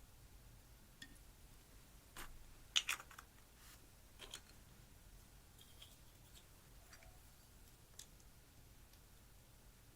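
A few sharp, scattered clicks and crackles of slime being handled, the loudest cluster about three seconds in, against quiet room tone.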